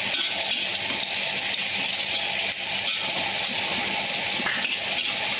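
Chopped shallots, garlic and red chilies sizzling steadily in hot oil in a wok, with light scrapes and taps as a spatula stirs them. The aromatics are being sautéed until wilted and fragrant.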